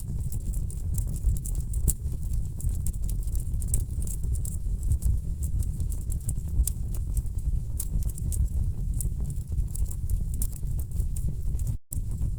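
Wood fire burning in a fireplace: a steady low rumble of flames with frequent sharp, irregular crackles and pops from the burning logs. The sound cuts out for a split second near the end.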